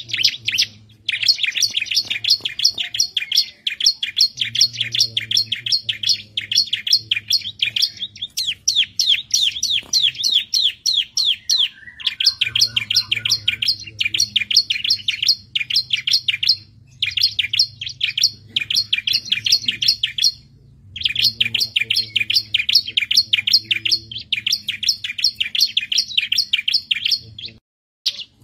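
Bar-winged prinia (ciblek) singing in full voice: long runs of rapid, high chirping notes, many a second, broken into phrases by short pauses every few seconds.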